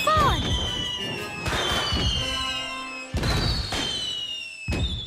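Firework sound effects over music: four bursts about a second and a half apart, each followed by a high falling whistle.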